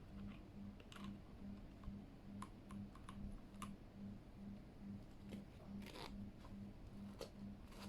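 Scattered, irregular light clicks and clacks from a Keychron K8 mechanical keyboard being handled, with its keys and keycaps tapped and pressed a few times, not steady typing.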